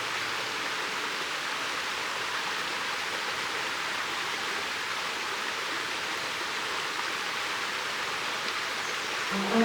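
Steady rushing noise of running water, like a stream, with no breaks or clicks. Background music comes in near the end.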